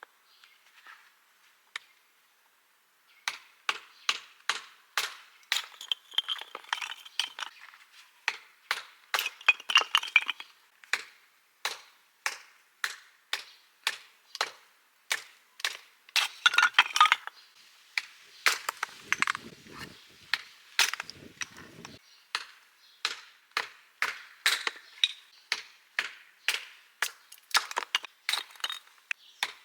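Knife chopping on a cutting board in a steady, even rhythm of about two to three crisp strokes a second, starting about three seconds in.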